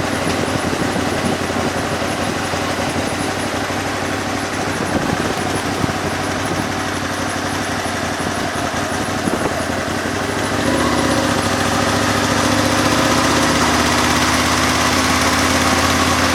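Old motorcycle engine running, its steady note growing louder and clearer about ten seconds in.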